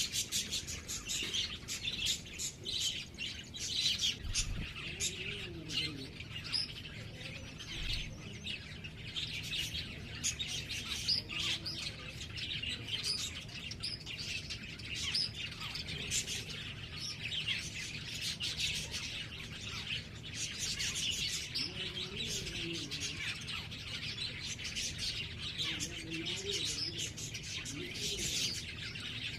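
Small birds chirping continuously: many short, high chirps overlapping one another.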